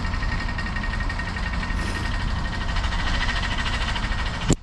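East Midlands Railway Class 158 diesel multiple unit idling at the platform: a steady engine rumble with a thin, steady high whine over it. A sharp click comes near the end.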